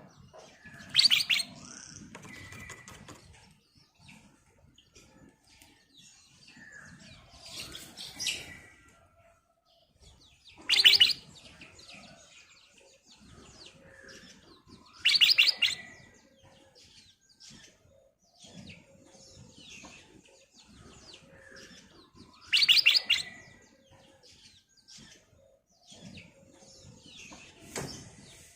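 Black-crested bulbul singing: loud, short, rapid phrases every few seconds, with softer chirps and twitters between them.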